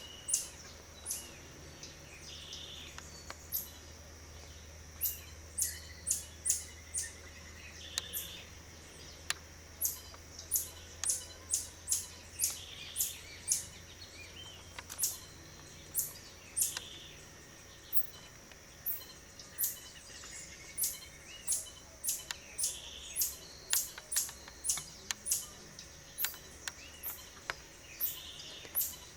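Bird calls: a long run of short, sharp, high chirps, about one or two a second with brief pauses, and a softer call repeating every few seconds. A steady high-pitched whine runs behind them.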